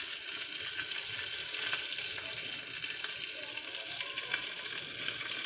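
Marinated chicken pieces frying in hot oil in a pan, a steady sizzle with small crackles and pops.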